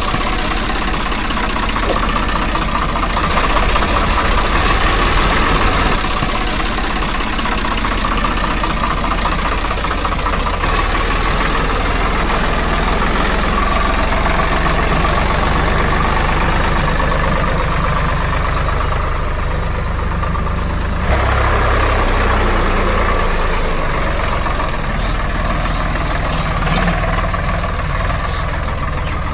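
Steady engine-like running with a low hum, changing abruptly about 21 seconds in.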